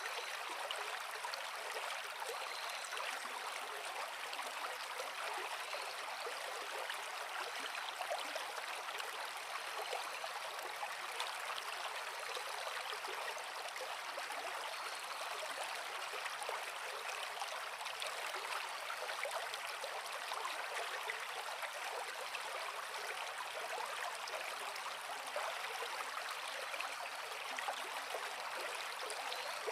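Creek water flowing over rocks, a steady even rush with its weight in the middle and high range and little bass.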